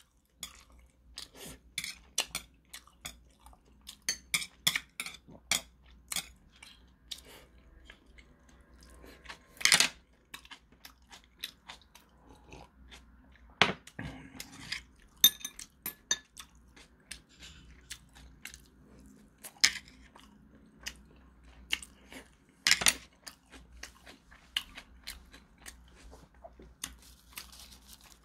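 A person chewing and crunching food close to the microphone: a steady run of wet, crackly mouth sounds with a few louder crunches or clicks along the way.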